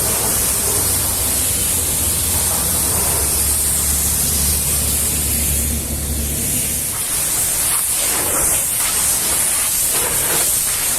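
High-pressure washer spraying water in a steady loud hiss, with a low hum underneath that stops about two-thirds of the way through.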